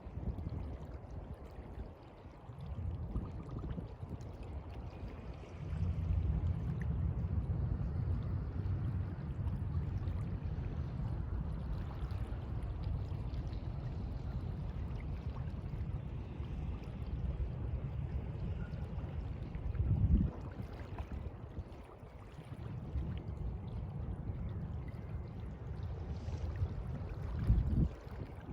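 Sea water washing and sloshing in slow swells, a low rushing that rises and falls over several seconds, with two brief louder surges, one about two-thirds of the way through and one near the end.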